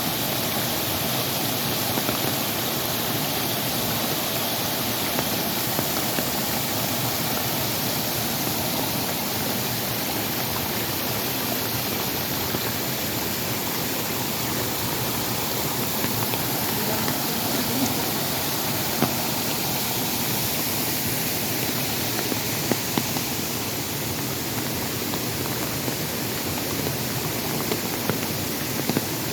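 Steady rushing water, an even hiss that does not let up, with a few brief small knocks or splashes in the second half.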